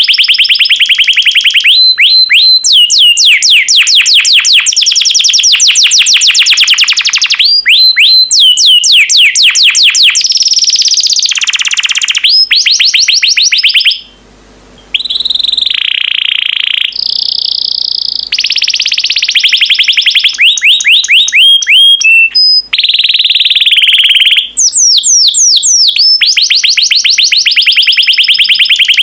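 Yellow domestic canary singing loudly in fast trills: runs of rapidly repeated high notes, each run lasting a few seconds before switching to another, with a brief break about halfway through.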